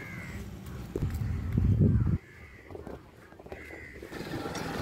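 A bird calling faintly three or four times, in short arched calls. About a second in, a loud low rumble starts and cuts off suddenly just after two seconds.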